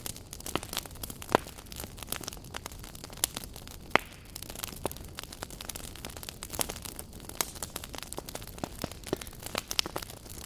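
Wood fire burning in a fireplace, crackling with irregular sharp pops and snaps over a low steady hiss and rumble of the flames.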